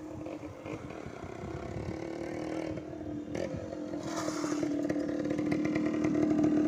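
Small motorcycle engine running at a steady pitch, growing gradually louder.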